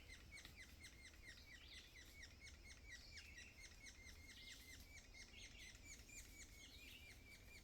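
Baby squirrels in a tree chirping a fast, steady run of short, high, faint chirps, about four a second, taken to be alarm calls at being disturbed.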